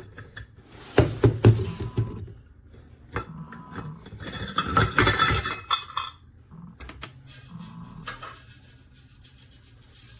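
Kitchen handling noise: clinks and knocks of a measuring cup against dishes, then dry minute rice poured into a baking dish with a rattling rush for about two seconds in the middle.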